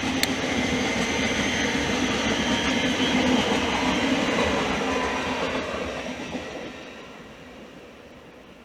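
Thameslink Class 700 electric multiple unit departing, its traction equipment giving a few steady held tones over the running noise, then fading steadily away from about five seconds in.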